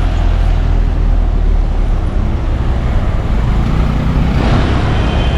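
Road traffic passing on a city street, a steady low rumble of cars, with one vehicle passing louder near the end.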